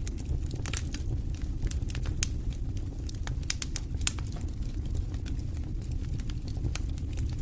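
Campfire burning: a steady low rumble with frequent sharp crackles and pops, the loudest about two and four seconds in.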